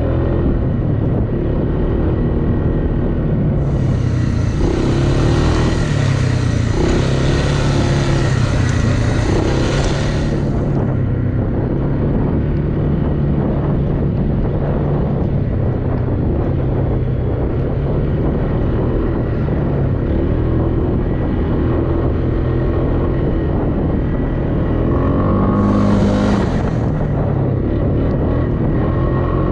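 Off-road vehicle engine running steadily under load, its pitch rising and falling with the throttle. A rushing hiss rides over it for about seven seconds after the start and again briefly near the end.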